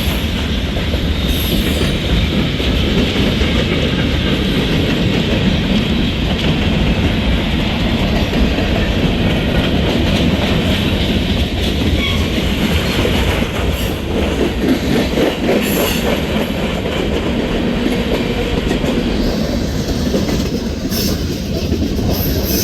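Cars of a mixed freight train rolling steadily past at close range, steel wheels running on the rails.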